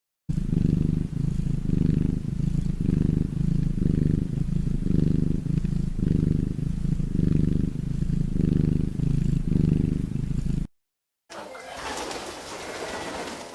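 Domestic cat purring: a deep, steady purr that swells and eases about twice a second with its breathing, stopping abruptly after about ten seconds.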